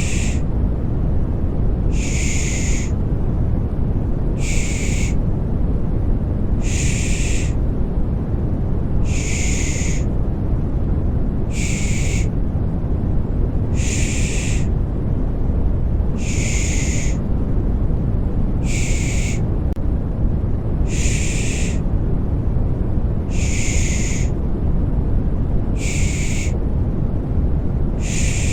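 Rhythmic baby-soothing shushing ('pış pış'): a short hissing 'shh' about every two and a half seconds, over a steady low-pitched rushing white noise.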